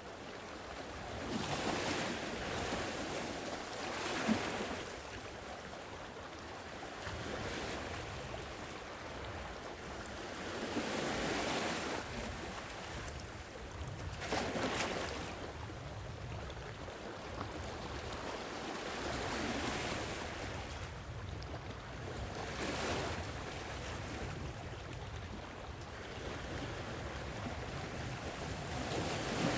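Sea waves breaking and washing on a shore, swelling and fading every few seconds, over a steady low rush of wind.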